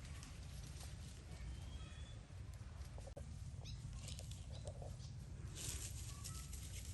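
Rustling and scattered clicks over a steady low rumble, with a few faint short chirps.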